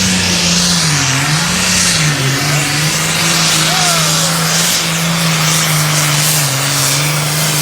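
A loud engine running steadily at high revs over a heavy hiss, its pitch dipping briefly and recovering about a second in, again a little after two seconds, and once more near the end.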